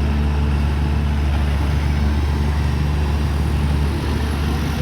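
Excavator's diesel engine running steadily, a deep even hum.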